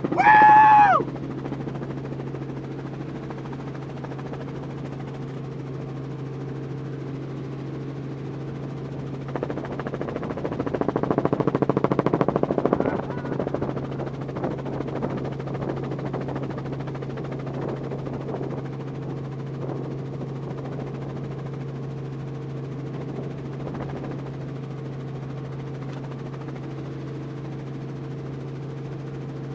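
Steady low drone of a helicopter heard from inside the cabin. About ten seconds in come a few seconds of rapid clatter, typical of airsoft rifles firing. A brief loud pitched tone sounds at the very start.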